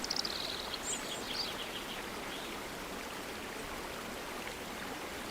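Steady rushing of a river, with a few brief high chirps in the first second and a half.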